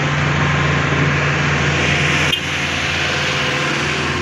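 A heavy engine running steadily close by, a low hum under a broad rushing noise, dropping a little in level about halfway through.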